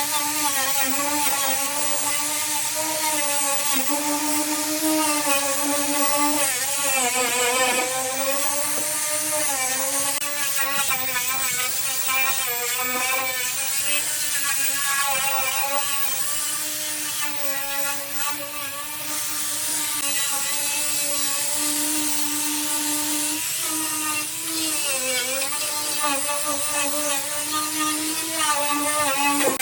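Handheld electric power tool running continuously with a whine whose pitch keeps dipping and recovering as it bears on the work, over a steady high hiss.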